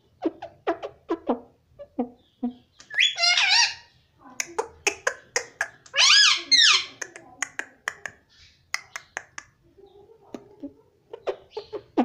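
Pet parrot chattering in short clicks and mumbled syllables. It gives two loud, high, wavering squawks, about three seconds in and again about six seconds in.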